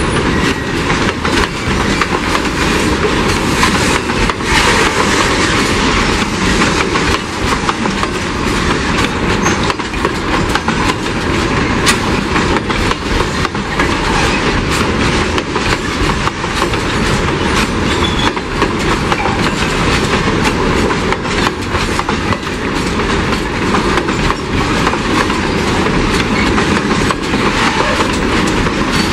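Empty curtain-sided freight wagons rolling past close by. Their steel wheels run on the rails with a loud, steady rumble and rattle, and a fast run of clicks as the wheels cross the rail joints.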